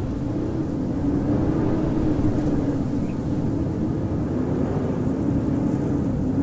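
Howling winter wind: a steady deep rush with a low moaning tone that wavers slightly in pitch.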